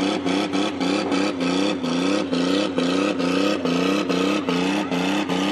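An old car's engine running rough after a jump start. Its pitch surges up and drops back a few times a second in a regular pattern. The engine is leaking oil out underneath.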